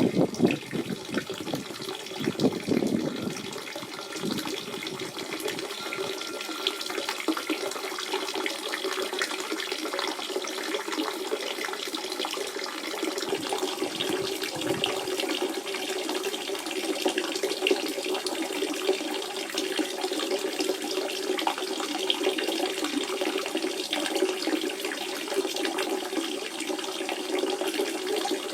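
Natural spring water running in a steady flow, with fuller, louder surges in the first three seconds.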